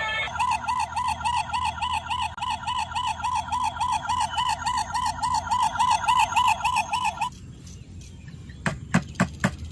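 Electronic siren of a toy police car, a fast warble of about four cycles a second, which stops about seven seconds in. A few sharp clicks follow near the end.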